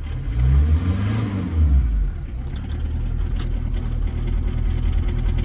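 A VW Caddy's 1.9 SDI diesel engine running just after its first start in over a year. Its revs rise and fall twice in the first two seconds, then it settles into a steady idle.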